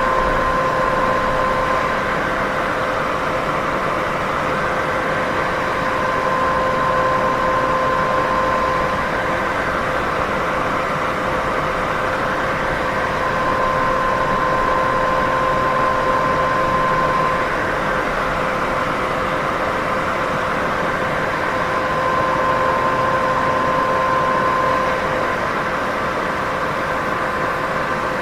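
Steady white noise for sleep: an even hiss, strongest in the middle range, with a faint hum that fades in and out every few seconds as the level gently swells and eases.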